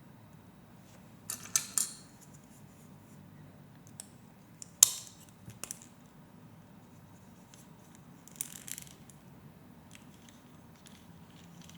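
Plastic Lego Technic pieces being handled and pressed together onto studs: a few scattered clicks and rattles, the sharpest snap about five seconds in.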